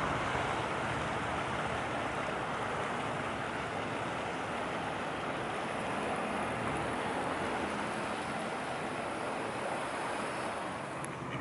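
Steady, even rush of river water and wind, with a faint low hum underneath.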